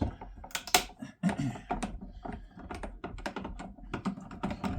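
Screwdriver and hands working the screws of an undersink boiler's casing: a quick, irregular run of clicks and knocks, with a couple of louder knocks in the first second and a half.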